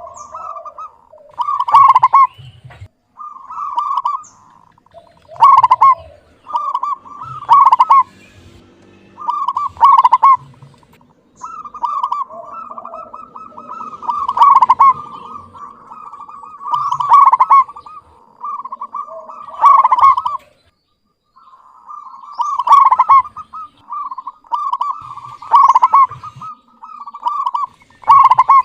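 Zebra dove (perkutut) cooing: phrases of repeated rolling coos, each rising to a loud peak about every two to three seconds.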